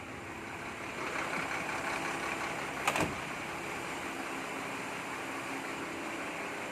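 Volvo truck's diesel engine idling steadily, with a single sharp knock about three seconds in.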